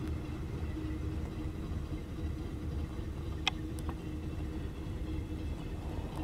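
Freight train rolling past, heard through window glass as a steady low rumble, with one sharp click about three and a half seconds in.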